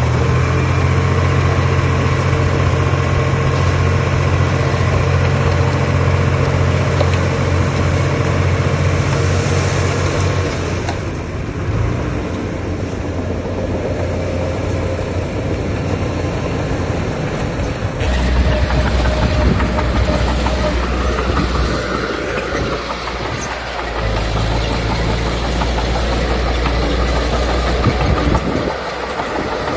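Diesel engine of heavy earthmoving machinery running continuously, its engine note shifting a few times as the load changes.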